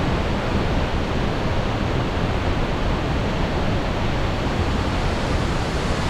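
Large waterfall pouring into its pool: a loud, steady rush of falling water.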